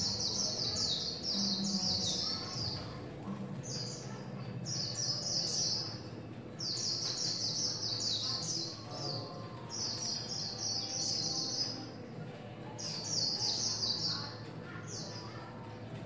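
Small bird chirping in bouts of rapid, high, slightly falling notes, each bout a second or two long and repeating every few seconds.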